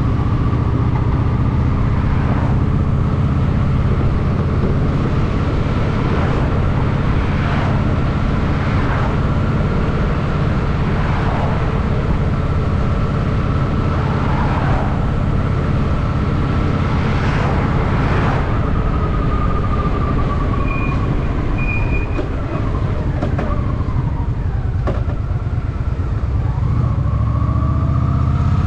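Honda Shadow VT750's V-twin engine running steadily while cruising in traffic, with other vehicles swishing past. The engine eases off about two-thirds of the way in and picks up again near the end.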